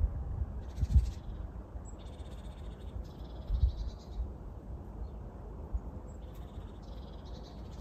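Small birds twittering in short, quick trilling phrases, several times, over a low outdoor rumble with a couple of dull low thumps about one second in and again mid-way.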